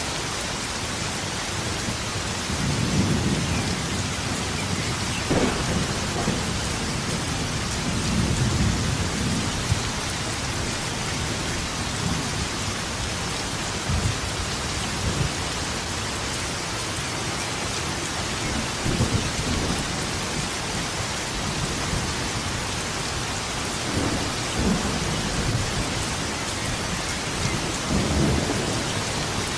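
Thunderstorm: steady heavy rain with repeated rolls of thunder, several low rumbles and a few sharp cracks throughout.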